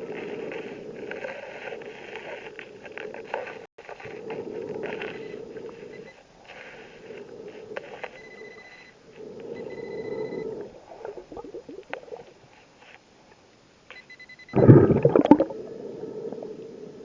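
Scuba diver breathing through a regulator underwater, hissing inhales alternating with bubbling exhales. Short high electronic beeps come a few times, and the loudest sound is a burst of exhaled bubbles about fifteen seconds in.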